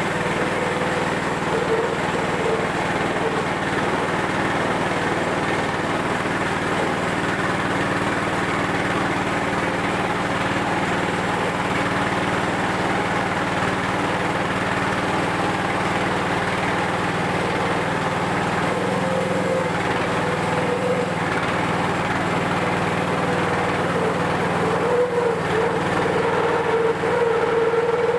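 Wood-Mizer portable band sawmill running steadily, its engine driving the band blade through a log, with a whine that comes and goes and grows stronger near the end.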